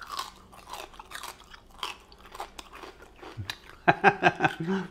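Crisp pork crackling being chewed, a string of sharp crunches close to a lapel microphone. Near the end a short, louder burst of voice cuts in over the chewing.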